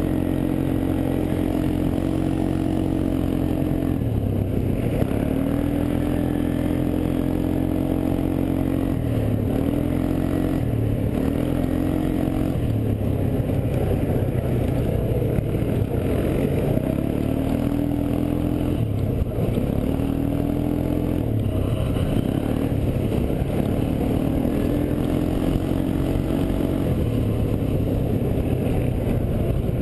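ATV engine running under load, revving up and easing off again and again, its pitch rising and dropping every few seconds.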